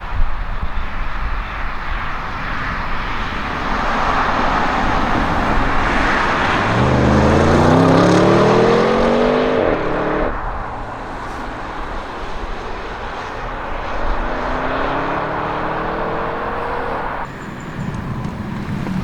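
Twin-turbo V8 of an Audi RS7 Sportback C8 with stage 2 tune and catless downpipes accelerating hard: the engine note rises steeply and breaks off at a gear change about halfway through, then climbs again and cuts off near the end, over a steady rush of road and wind noise.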